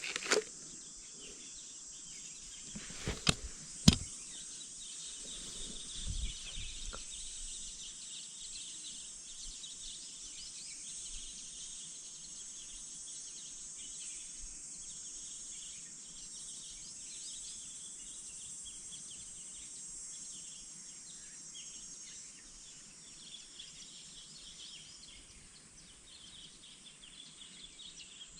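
Steady high-pitched chorus of insects with bird chirps. A few sharp clicks and knocks come in the first four seconds, and a low thud about six seconds in.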